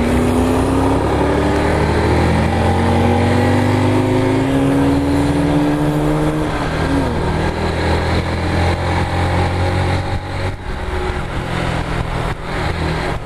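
Small motorcycle's engine pulling in gear under the rider, its pitch rising steadily for about six seconds, then dropping as the throttle eases and running on at a lower, steadier speed. Wind and road noise on the bike-mounted microphone run underneath.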